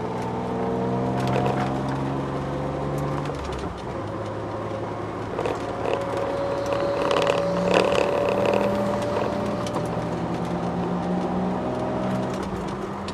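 Ford Sierra XR4x4 twin-turbo's engine running at low revs, heard from inside the car, a steady hum whose pitch drifts gently up and down.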